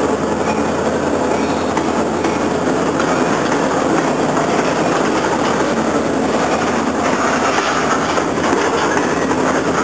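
Freight cars rolling past close by, a steady loud rolling noise of steel wheels on the rails.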